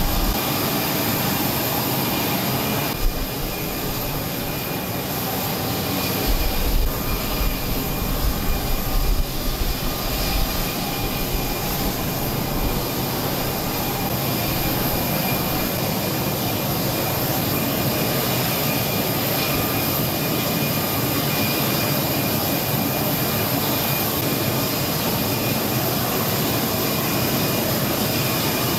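Twin turboprop engines of a C-27J Spartan military transport aircraft running steadily, a loud rushing noise with a constant high turbine whine. It grows louder and more uneven about six to ten seconds in, with a short knock about three seconds in.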